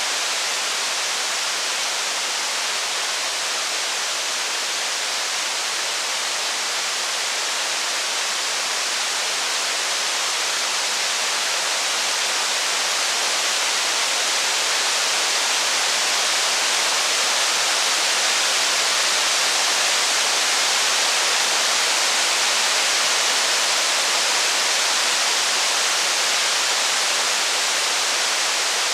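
Steady heavy rain, an even unbroken hiss that grows slightly louder about halfway through.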